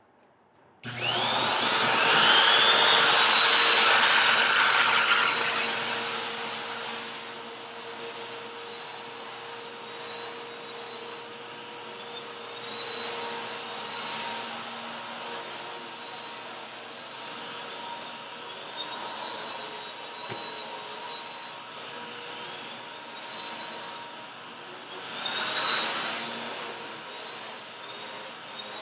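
A small handheld vacuum cleaner switches on about a second in, its motor whine rising as it spins up. It then settles into a steadier, quieter run, with a few louder noisy patches as it works over the floor.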